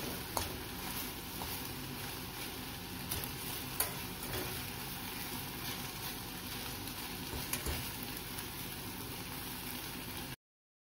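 Rice and vegetables sizzling as they fry in a stainless steel saucepan, with a few sharp clicks and scrapes from a utensil stirring against the pan. The sound cuts off abruptly just before the end.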